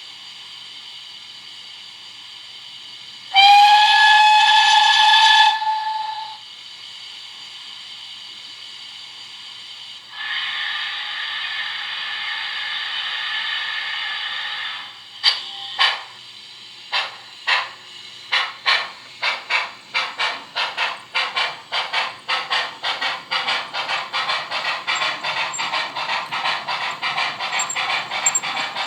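Model steam locomotive sounds over a steady hiss of steam: one loud whistle blast a few seconds in, a longer rush of escaping steam, then exhaust chuffs that start slow and quicken steadily as the engine pulls away.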